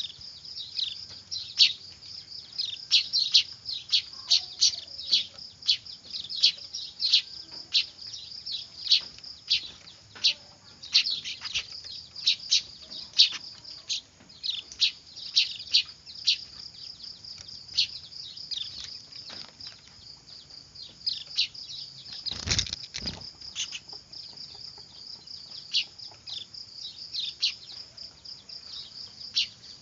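A noisy clamour of weaver bird (manyar) chicks: a continuous stream of short, high, downward-sweeping chirps, many overlapping. One dull knock is heard about two-thirds of the way through.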